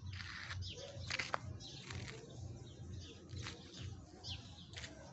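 Birds chirping in short, falling calls over a low rumble that pulses about twice a second, with a few sharp clicks a little over a second in.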